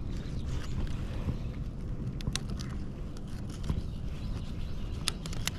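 Wind rumbling on the microphone, with a few sharp clicks: one about two seconds in and two near the end.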